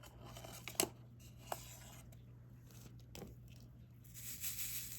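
Light clicks and taps of diamond-painting work: a drill pen picking up and pressing resin drills, with a drill tray handled. About four seconds in comes a rustle lasting a second or so, over a faint steady low hum.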